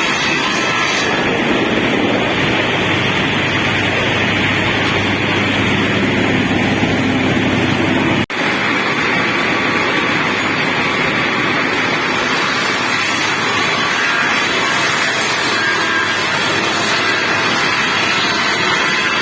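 Steady, loud machine noise from a slab-resawing machine's horizontal circular saws and motors running. It breaks off for a split second about eight seconds in.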